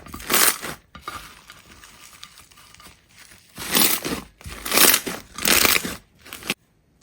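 Crunching, crinkling strokes of some crisp material being pressed or cut: one near the start, then four louder ones in the second half, cutting off suddenly near the end.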